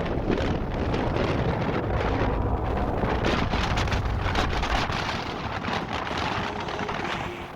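Wind buffeting the microphone over rushing and splashing water on a sailboat under way, with a heavy low rumble for the first few seconds that then eases.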